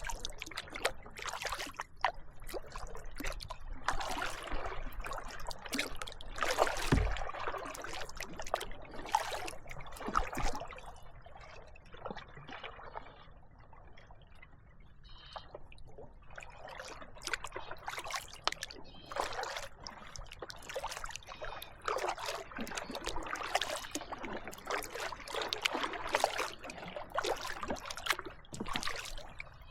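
Kayak paddle strokes on calm water, the blades dipping and water trickling and dripping off them in an uneven rhythm, easing off for a few seconds midway.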